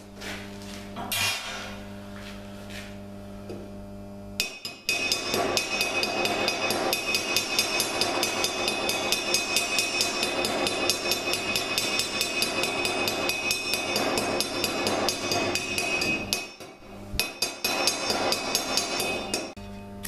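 Rapid, repeated metal-on-metal strokes from a hand tool working metal, starting about four seconds in. They run fast and steady, break off briefly near the end, then resume.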